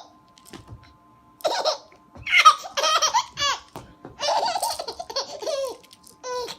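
A baby laughing in several separate bursts of high-pitched giggling.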